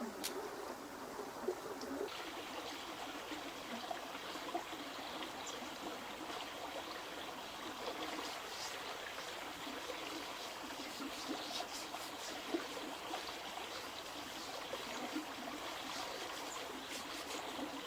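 Running water trickling steadily, with scattered small drips and splashes.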